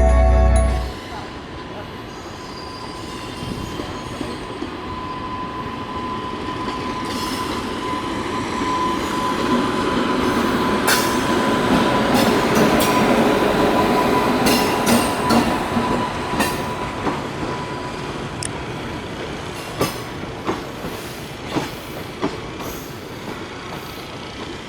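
Passenger train hauled by a WAG-9 electric locomotive pulling into a station. A rumble of wheels on rails swells with a thin steady squeal, then turns into separate clacks of wheels over rail joints as the train passes slowly. Music cuts off about a second in.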